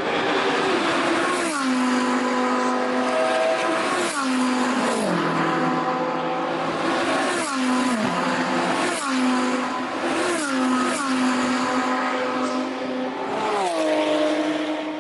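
World Rally Car engine at high revs, held at a steady pitch that drops in steps about every one to three seconds.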